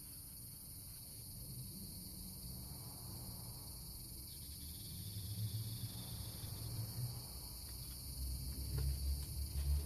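Steady high-pitched chirring of insects, under an uneven low rumble that swells and is loudest near the end.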